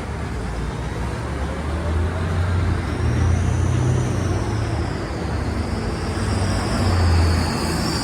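Road traffic: a heavy vehicle's low engine rumble that swells and eases, over steady road noise, with a high wavering whine coming in about three seconds in.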